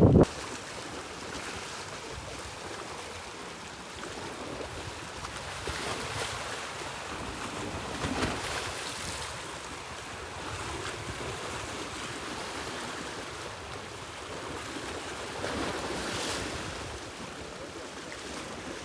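Sea waves washing on the shore, a steady surf hiss that swells several times as waves break, with sea wind in the background.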